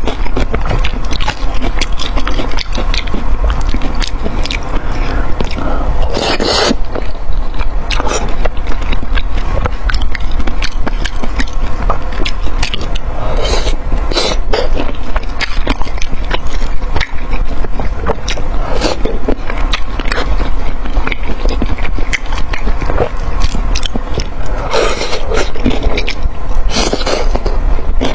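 Close-miked eating: steady chewing full of quick crunches, clicks and wet smacks, with a few longer louder crunching or slurping spells.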